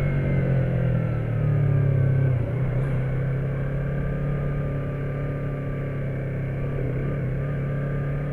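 Motorcycle engine running while riding, its pitch easing down over the first few seconds and then holding steady.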